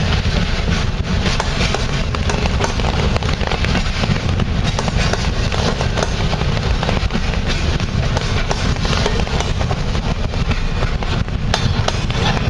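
Heavy storm rain: a dense crackle of drops striking close to the microphone over a steady low rumble.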